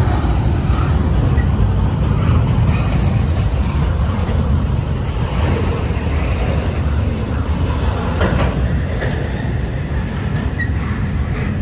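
Freight train intermodal cars rolling past: a steady, loud low rumble of steel wheels on the rails.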